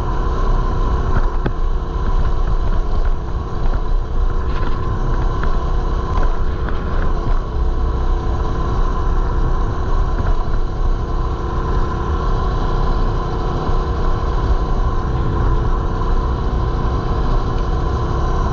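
Mini bike's small engine running at a steady speed while being ridden, its pitch holding level throughout.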